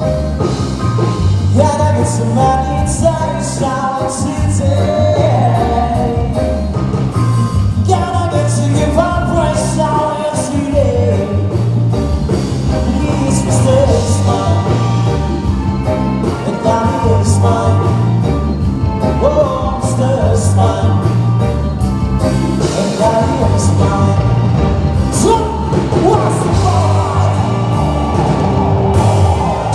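A live band playing a song, with a singer over a steady beat.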